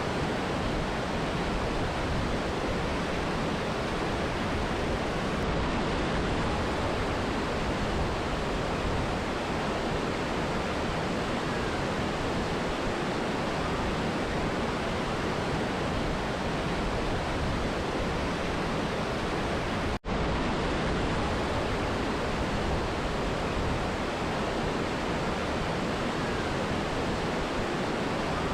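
Steady rush of a mountain river and waterfall, an even water noise with no change in level. The sound cuts out for an instant about twenty seconds in and resumes at once.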